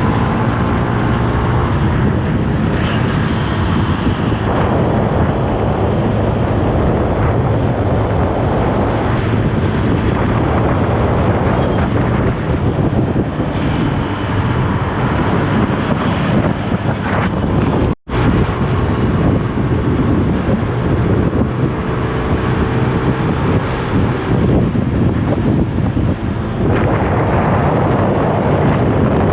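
Wind buffeting the microphone while riding along a road on a motor scooter, with the engine running steadily underneath. The sound cuts out for an instant about two-thirds of the way through.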